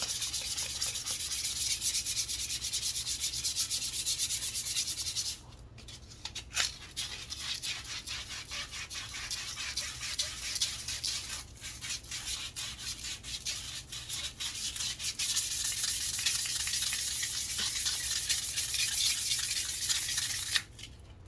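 Sandpaper rubbed rapidly back and forth along a wooden walking stick, a dry scratchy rasp of quick strokes. It is steady at first, turns lighter and patchier for a while, picks up steadily again, and stops suddenly near the end.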